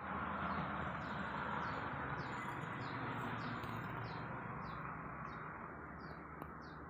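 A small bird chirping repeatedly, about two short downward chirps a second, over a steady rushing background noise that fades slightly.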